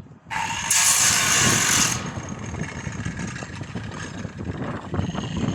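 Stick-welding arc cutting into a steel car chassis frame. A loud hiss for the first couple of seconds, then a steadier crackle as the electrode burns into the metal.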